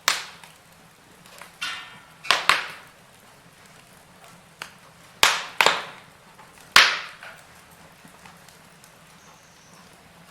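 Wood fire in a fireplace crackling, with a series of sharp, loud pops, some coming in quick pairs, over a faint steady hiss.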